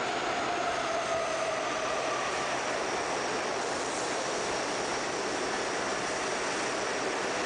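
Steady rushing rumble of a passing train, with faint whines that slowly fall in pitch.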